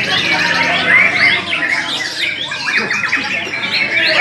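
Many caged songbirds singing at once, a dense tangle of whistles, chirps and fast trills.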